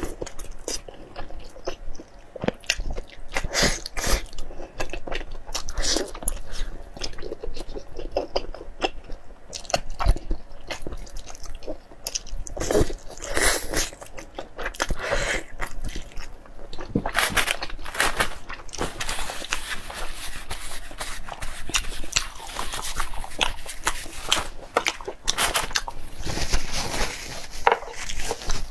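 Close-miked eating: biting into and chewing a sauce-coated piece of braised meat on the bone, with many short crunches and wet clicks from the mouth, coming thicker in the second half.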